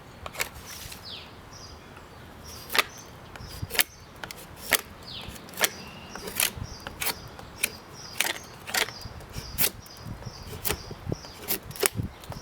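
Railroad-spike knife whittling a maple hammer-handle blank: a string of sharp, irregular cuts and snaps as the blade bites into the wood and chips break away, coming faster in the second half.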